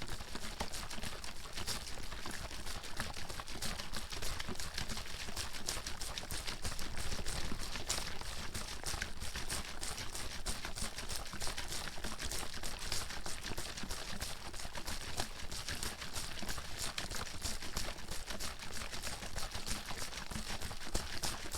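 Water sloshing and splashing inside a plastic bottle shaken rapidly and continuously, with fast, uneven rattling strokes.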